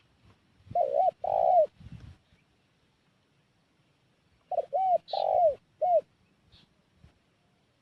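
Spotted dove cooing: a phrase of two or three notes about a second in, then a four-note phrase around five seconds in, each note arching up and down in pitch.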